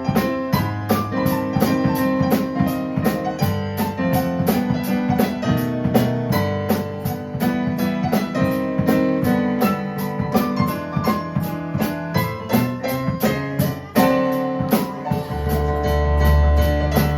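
Live band music: keyboard playing chords and melody over a drum kit keeping a steady beat of about three strikes a second. About fourteen seconds in the sound drops out for a moment, then comes back with a strong hit and deep bass notes.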